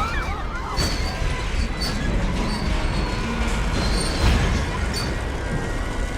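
Film sound of a runaway train being brought to a stop: a heavy, steady rumble with repeated short, high metal squeals and a few sharp knocks.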